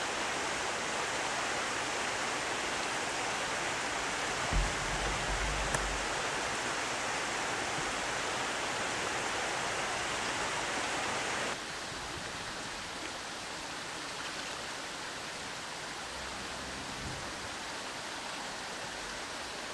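Steady rushing of river water, a smooth even hiss that drops suddenly to a quieter level about two-thirds of the way through. There is a brief low thump about four and a half seconds in.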